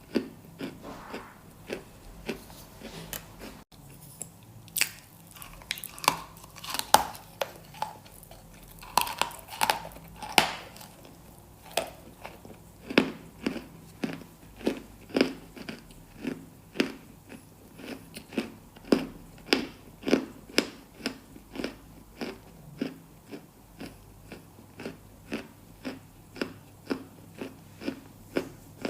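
Close-miked crunching bites and chewing, each bite a sharp, short crunch. Uneven at first, with a few squeaky crunches. From about halfway on it settles into a steady run of about two crunches a second.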